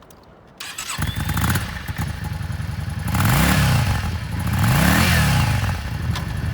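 Yamaha V Star 650 Custom's air-cooled V-twin engine started up about half a second in, catching quickly and running. It is then revved twice, each rev rising and falling.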